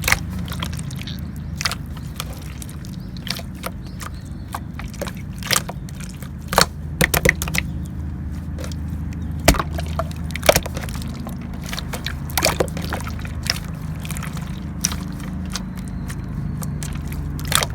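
Light-purple clear slime squished and stretched by hand, giving irregular sharp clicks and pops, over a steady low hum.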